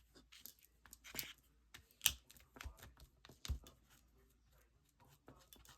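Paper rustling with scattered small taps and clicks from craft materials being handled, the sharpest two about two and three and a half seconds in.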